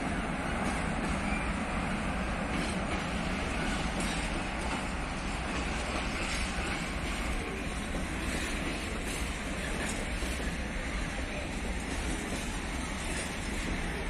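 A train running along the track, a steady rumble of wheels on rails.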